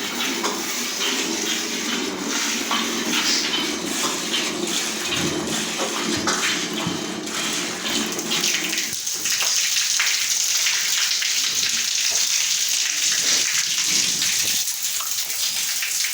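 Milk squirting from a cow's teats into a pail during hand milking: a continuous hissing splash that gets louder and brighter about nine seconds in.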